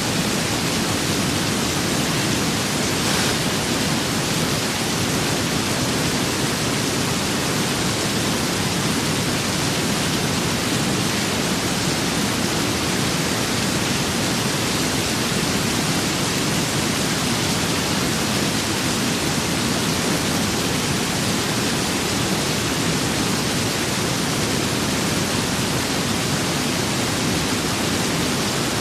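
Steady rain with wind: a dense, unchanging wash of rainfall noise.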